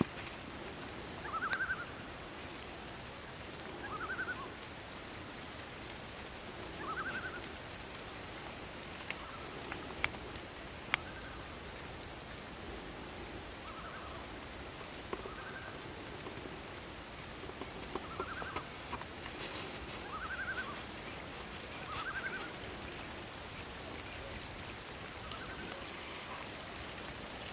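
Night forest ambience: a steady hiss of rain with a short animal call repeated about every three seconds, and a few sharp drips about ten seconds in.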